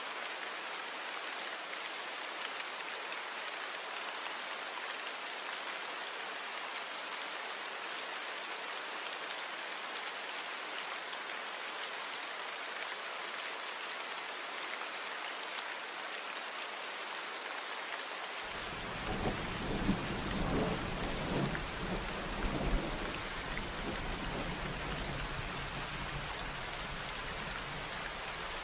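Steady rain falling. About two-thirds of the way through, a low rumble of thunder sets in suddenly, loudest in its first few seconds, then lingers under the rain.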